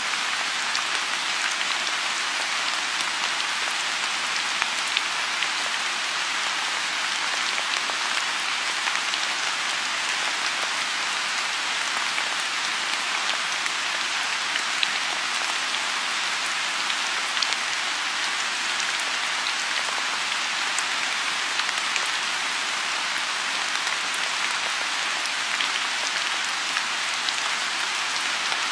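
Steady rain falling on a pond, an even hiss with scattered individual drops ticking.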